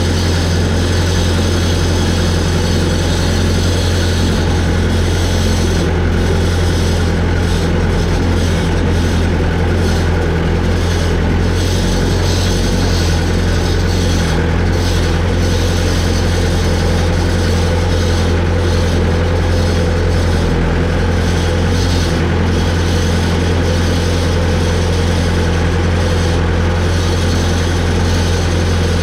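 Large engine running steadily at a constant idle, with a strong low hum and no change in speed.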